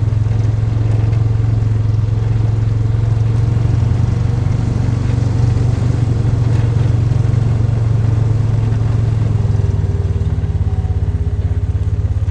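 An engine running steadily at a constant low speed, close by, with a deep even hum and a fast regular pulse.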